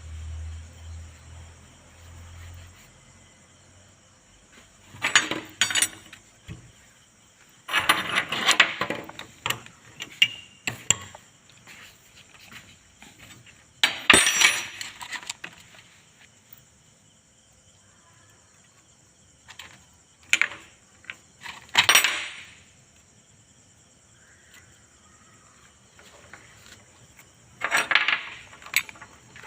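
Metal tools and parts clinking and clattering in several short bursts, with quiet gaps between, as steering components are worked on by hand.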